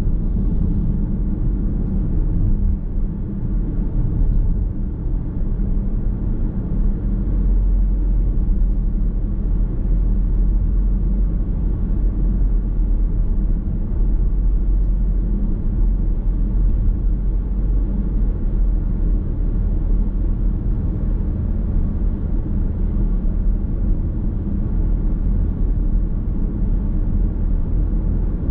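Car driving at steady speed, heard from inside the cabin: a continuous low rumble of tyre, road and engine noise.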